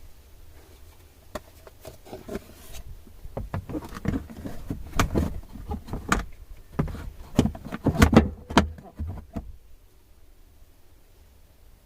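Irregular clicks, knocks and clatter of hard parts being handled, at work on a Toyota Prius's 12-volt auxiliary battery. It starts sparse, becomes busiest and loudest in the middle, and stops shortly before the end.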